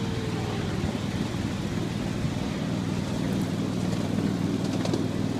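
Train running along the track, heard from an open passenger car: a steady low drone over a rumble, with a few faint ticks a few seconds in.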